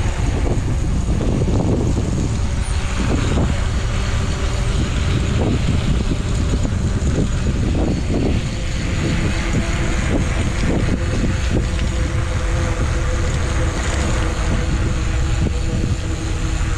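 Wind buffeting the microphone of a camera on a bicycle riding fast downhill: a steady, loud low rumble with rushing air above it.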